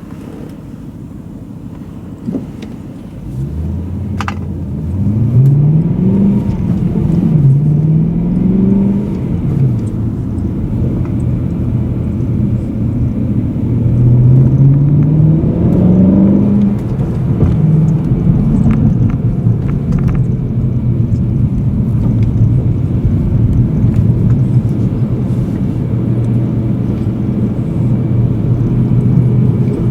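BMW M3 E92's V8 engine heard from inside the cabin, accelerating through the gears: after a few quieter seconds the engine note climbs and falls back twice at upshifts, climbs again around the middle, then settles into a steady cruise. A couple of short clicks sound in the first few seconds.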